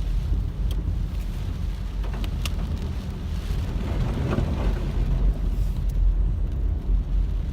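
Car road noise heard from inside the cabin while driving on rain-soaked roads: a steady low rumble of engine and tyres with a hiss of wet road and rain, and a few sharp ticks.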